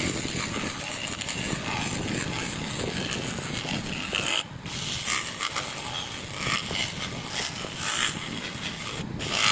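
Motorcycle rear footrest being worked with an abrasive, giving a steady rasping scrape that breaks off briefly about four and a half seconds in and again near the end.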